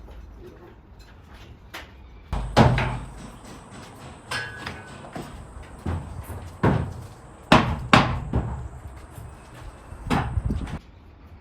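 Irregular knocks and bangs, about six in all, the loudest a few seconds in and a pair just past the middle. A faint steady high whine starts about two seconds in and stops shortly before the end.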